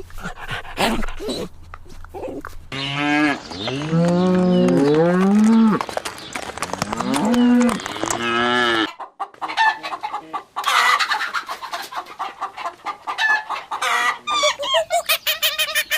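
Farm animal calls in sequence: several long, deep cattle moos that rise and fall in pitch, then a break about nine seconds in, then a flock of chickens clucking with many short calls, ending in a fast, even run of clucks.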